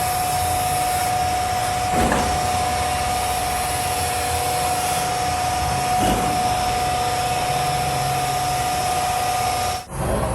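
A machine running steadily with a constant high whine over a broad mechanical noise, which cuts off abruptly near the end.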